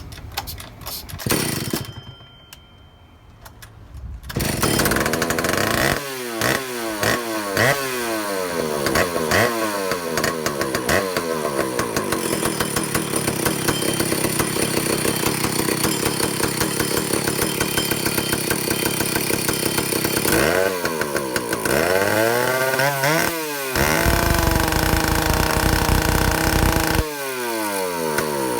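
Vintage Stihl two-stroke chainsaw engine starting about four seconds in. It is revved repeatedly, the pitch falling back after each blip, then held at high speed for several seconds and revved up and down again near the end. This is a test of its high-speed carburetor needle with a new-old-stock governor valve fitted.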